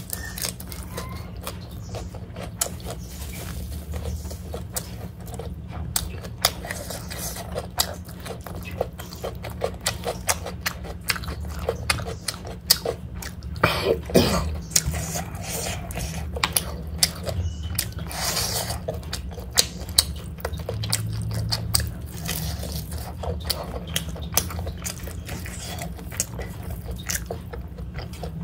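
A person chewing and biting mouthfuls of chicken biryani and leafy salad greens, with many small sharp mouth clicks and a louder sound about halfway through, over a steady low hum.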